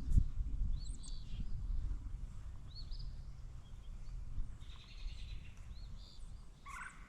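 Birds chirping in short arched notes, repeated every second or two, over a steady low rumble. A sharp knock just after the start is the loudest sound.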